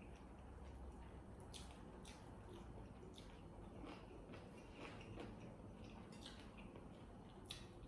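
Faint eating sounds: wet mouth clicks and smacks of chewing, scattered irregularly.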